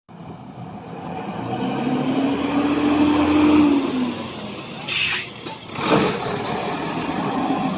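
Diesel engine of a HOWO tractor truck running, the revs rising over the first few seconds and then dropping back to a steady run. A short hiss comes about five seconds in, and a sharp burst about a second later.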